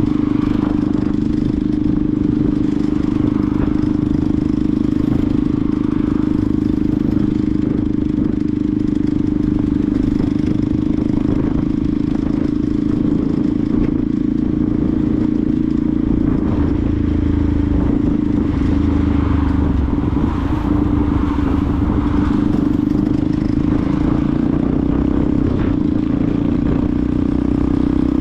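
Benelli TNT 125's single-cylinder four-stroke engine running steadily under way, holding a fairly even pitch.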